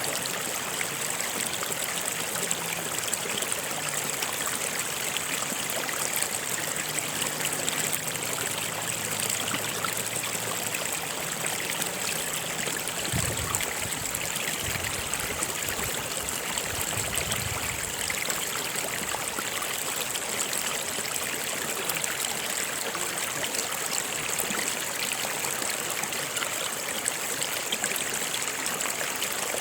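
Stream or small river running steadily, a continuous, even rush of water.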